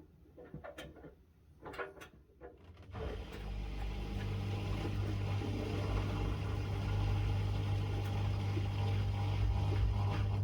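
Miele W1 front-loading washing machine: a few light knocks, then about three seconds in a steady deep hum with a rushing sound starts up and slowly grows louder.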